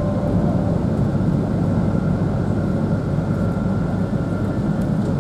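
Running noise of an E2 series Shinkansen heard inside the passenger car just after departure: a steady low noise of wheels on rail and running gear, with a faint steady high tone joining about two seconds in.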